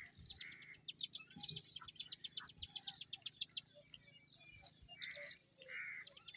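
Birds calling: a stream of quick, high chirps throughout, with a few short harsh calls, one at the start and three close together near the end.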